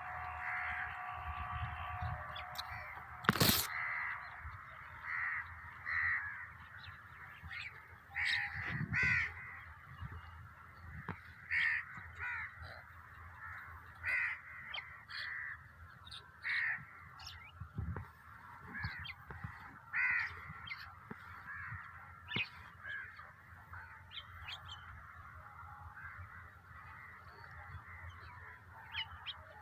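Crows cawing, short calls repeated every second or two, over other bird chatter. A single sharp knock sounds about three and a half seconds in.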